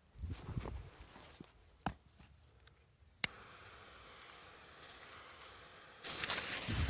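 Rustling and soft footsteps, then a sharp click about three seconds in, followed by a steady hiss of a burning firecracker fuse. Louder footsteps start near the end, before any bang.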